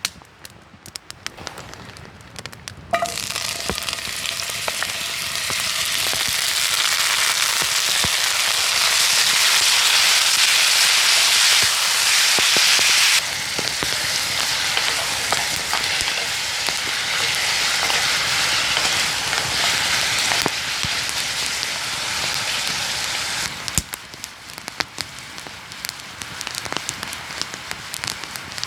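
Wood fire crackling. About three seconds in, food goes into a hot pan over the campfire and a loud, steady sizzle starts. The sizzle drops back to quieter crackling near the end.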